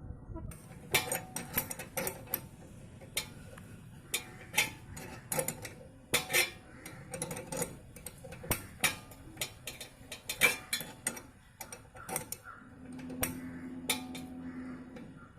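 Metallic clicking and clinking from a 13 mm spanner working the adjuster nut on a Royal Enfield 350's rear drum-brake rod, in irregular ticks as the nut is turned a bit at a time. A low steady hum comes in near the end.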